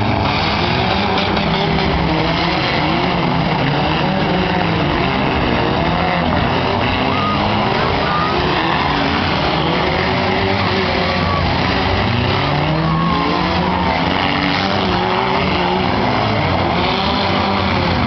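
Several four-cylinder demolition derby cars' engines running and revving together, their pitches rising and falling over one another.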